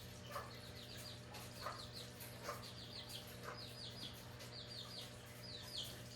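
Birds calling: quick high chirps in twos and threes, repeating over and over, with a lower short call about once a second, over a faint steady hum.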